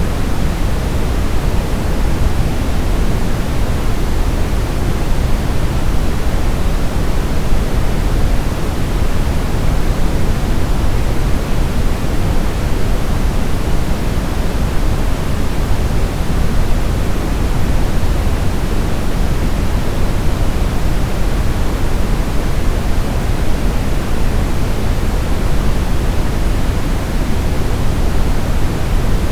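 Steady sleep-aid white noise: an even, unchanging rush, heaviest in the low end.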